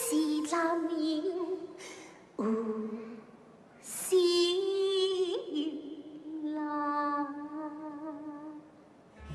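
A woman's voice singing gezai opera, mostly unaccompanied: long, wavering held notes in several separate phrases.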